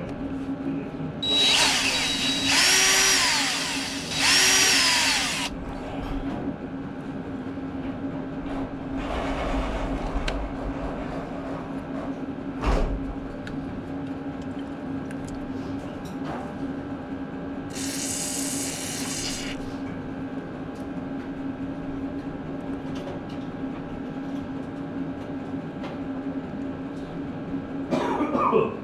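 Power drill run in several bursts, each speeding up and winding down: two long runs back to back near the start and shorter ones later, with a sharp click in between. A steady low hum lies underneath. This is typical of drilling out the broken-off starter mounting bolt on a Ford 8N.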